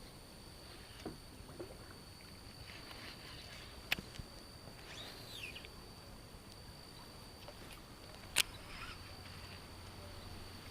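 Quiet creek ambience with water moving softly around a wading angler's legs, under a thin steady high tone. Two sharp clicks land about 4 and 8.5 seconds in, and a short rising-and-falling call comes about 5 seconds in.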